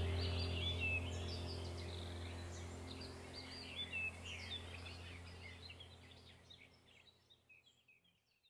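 Birds chirping with many quick, high twittering calls over a low steady hum. Both fade away gradually to near silence near the end.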